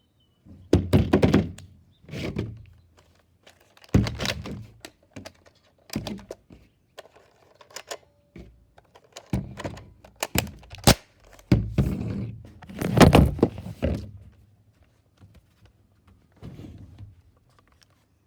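An irregular series of hollow thunks and knocks, about a dozen, some in quick pairs, with the loudest cluster near the end.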